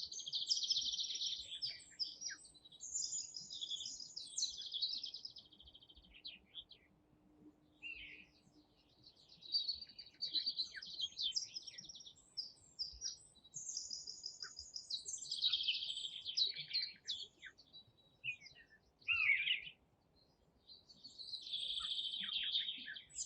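Songbirds singing: phrases of rapid high twittering notes, each lasting a couple of seconds, repeating with short pauses between them.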